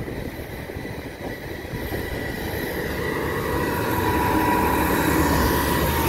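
Class 158 diesel multiple unit rumbling slowly over the level crossing, getting louder as it comes alongside. A thin whining tone rises over the last few seconds.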